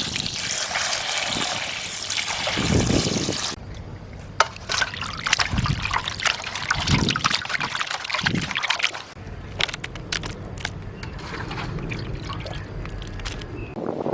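Water pouring for about three and a half seconds, then irregular small splashes and clicks of water being handled.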